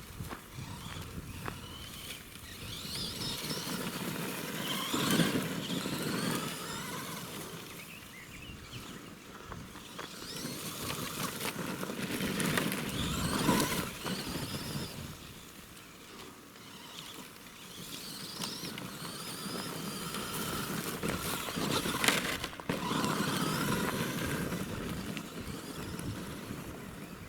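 Axial SMT10 radio-controlled monster truck's electric motor whining up and down in pitch as it is throttled, over the crunch of its tyres on rough quarry ground. The sound swells loudest three times, with a few sharp knocks.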